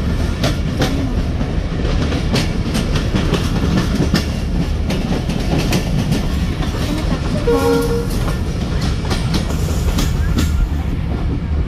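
Passenger train running, heard from inside the carriage: a steady rumble with irregular clacks of the wheels over the rail joints. A short horn note sounds about two-thirds of the way through.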